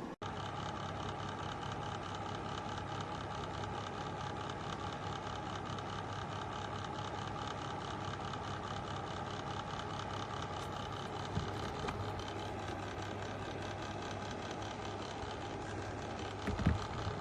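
Steady whir of a small motor running, with a brief thump near the end.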